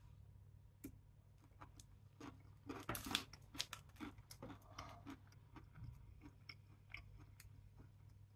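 Quiet chewing and crunching of a Daim Caramel Latte bar, its hard crunchy caramel centre cracking between the teeth in irregular small crackles, busiest around three seconds in.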